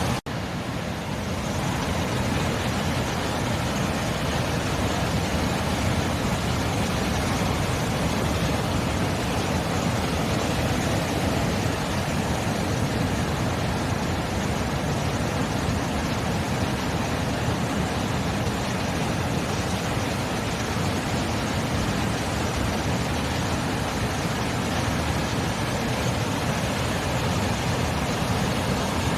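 Sea surf as a steady, even rush of noise, with no separate wave breaks standing out. The sound cuts out for an instant just after the start.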